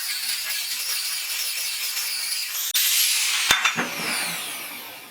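High-pitched power tool running steadily. About two-thirds in the sound changes abruptly, there is a sharp click, and then its pitch falls and the sound fades as the tool winds down.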